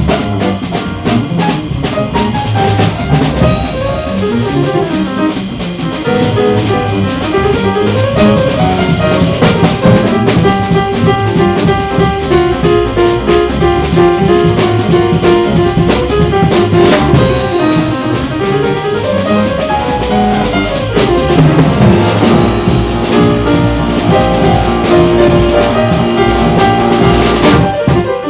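Jazz piano trio of piano, bass and drum kit playing, the drums busy and prominent throughout.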